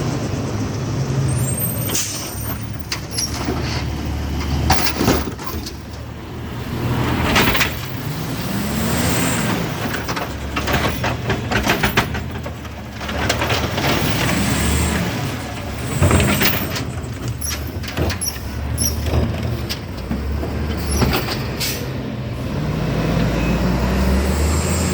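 Garbage truck with an Amrep automated side-loader arm at work: the diesel engine rises and falls in pitch several times as the hydraulic arm cycles, with clanks and bangs of the cart and arm in between.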